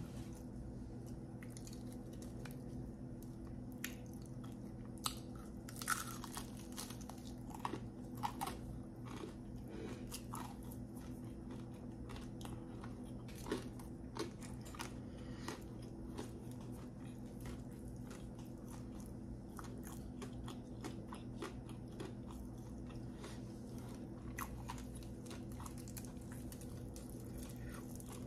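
Close-miked chewing of crispy breaded fried chicken, with scattered crisp crunches and bites, more frequent in the first ten seconds, over a steady low hum.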